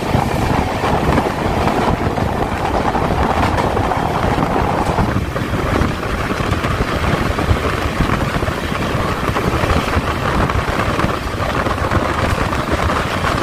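Steady running noise of a moving express passenger train, with wind rushing over the microphone; the tone shifts slightly about five seconds in.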